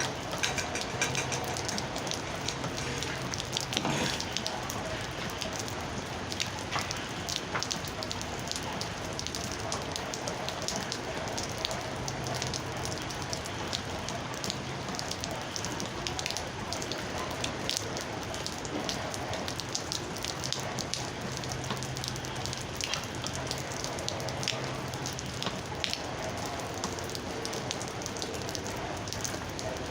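Steady rain falling, an even hiss dotted with many separate drops striking close by.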